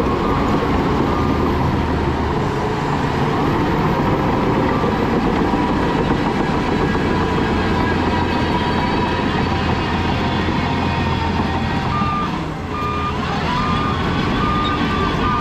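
Heavy diesel machinery engine running steadily under load with a deep rumble. About twelve seconds in, a reversing alarm starts beeping at a single pitch, a little more than once a second.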